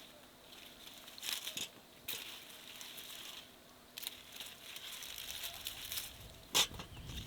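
Irregular bursts of crinkling, rustling handling noise, with one sharp click about six and a half seconds in.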